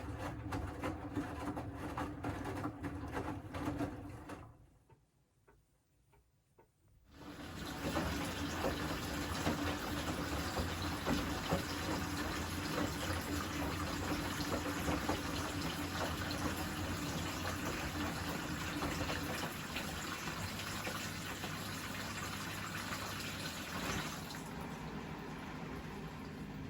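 Siemens WM14T490 washing machine: the drum motor runs briefly and stops. After a pause of a few seconds, water rushes loudly and steadily through the machine, easing off a little near the end.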